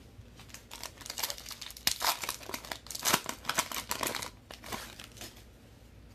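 Crinkling and tearing of a trading-card pack wrapper as a Donruss football pack is handled and opened: a dense, crackly run of rustling that is busiest in the middle and dies away about five seconds in.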